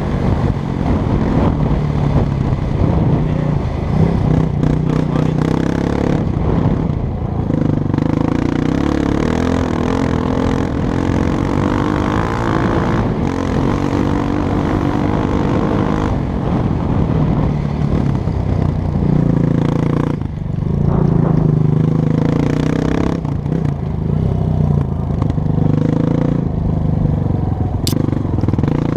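Honda CRF230F dirt bike's single-cylinder four-stroke engine running as the bike is ridden, its pitch rising and falling with the throttle, along with clattering and scraping.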